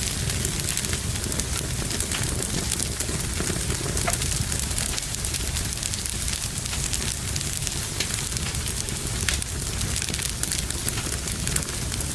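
Wood fire burning in a fireplace: a steady hiss with frequent small crackles and pops throughout.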